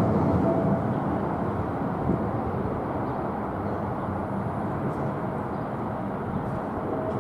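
Twin jet engines of a Boeing 777 at takeoff power: a steady deep rumble that eases a little about a second in.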